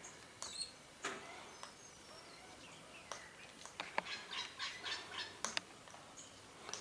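Birds calling in short scattered calls, with a quick run of chattering notes and a few sharp clicks in the second half.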